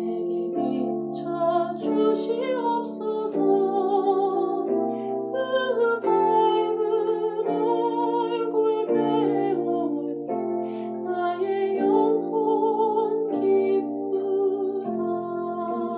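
A slow hymn: a wavering, vibrato melody sung over sustained keyboard chords that change every second or two.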